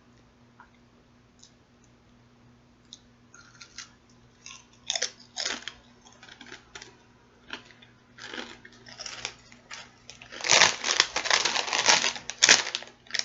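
Someone eating close to the microphone: scattered crunches and chewing sounds after a quiet start, growing dense and loudest near the end.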